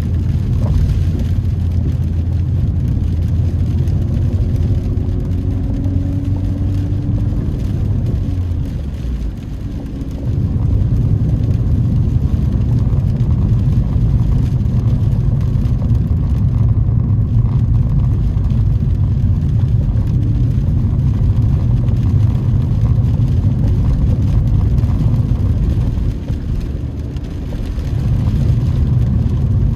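Car's engine and tyre noise heard inside the cabin while driving on a wet road: a steady low rumble that eases off briefly twice.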